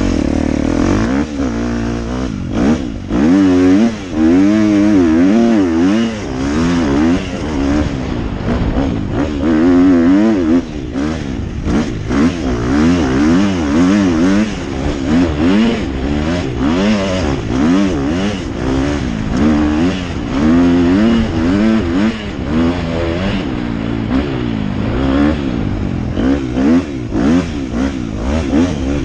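Dirt bike engine revving up and down over and over as it is ridden, its pitch climbing and dropping every second or so.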